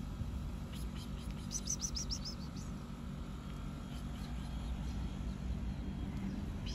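A small bird chirping a quick run of short, high notes about a second and a half in, with one more chirp at the very end, over a steady low background rumble.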